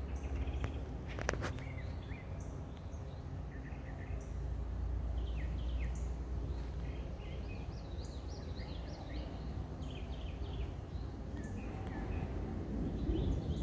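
Wild birds chirping in short, scattered calls over a steady low rumble, with a sharp click about a second in.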